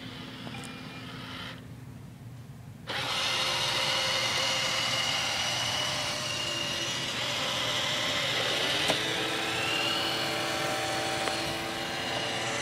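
iRobot Roomba robot vacuum starting a cleaning run: a short beep near the start, then about three seconds in its vacuum motor and brushes start abruptly and run steadily with a whine. The pitch of the whine shifts about nine seconds in.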